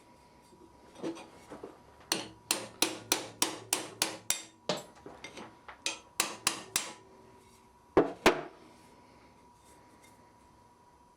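Blacksmith's hammer striking hot steel on an anvil. A quick run of about eight blows comes at roughly three a second, then a short cluster of four, and two loudest blows close together near the end.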